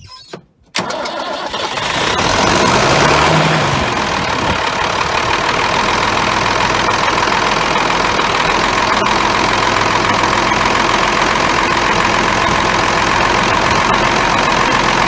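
Ford TW-20's six-cylinder diesel engine starting from cold at about 35 °F after a fuel filter change and injection pump bleed. It catches about a second in, runs up briefly, then settles to a steady idle.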